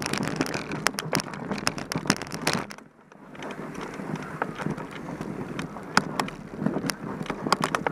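Mountain bike riding over rough trail: tyres on dirt and a dense clatter of sharp knocks and rattles from the bike, with wind buffeting the microphone. It eases off for a moment about three seconds in, then the rattling picks up again.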